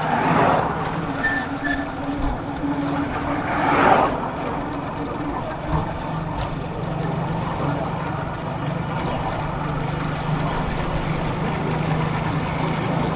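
Motorcycle engine running steadily while riding, under a haze of wind and road noise, with a louder rush of noise at the start and again about four seconds in.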